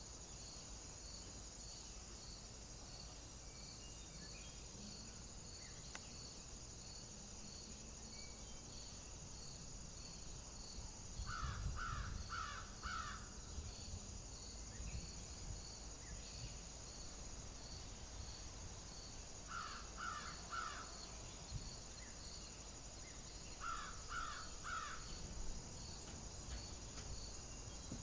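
A bird calling in three short runs of three or four quick calls, over a steady high insect chorus with a regular pulsing chirp beneath it.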